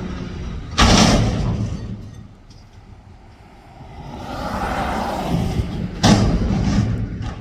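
Garbage truck with two loud, sudden bangs about five seconds apart, each ringing out for about a second. Between them a rumble swells and fades.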